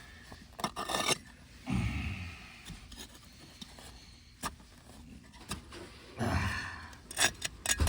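Shovel digging into soil, scraping through dirt with scattered sharp clicks and knocks.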